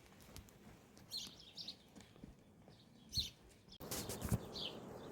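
Small birds chirping: short, high, downward-sliding calls in a cluster about a second in and again in the last second, with a couple of soft low thumps between them.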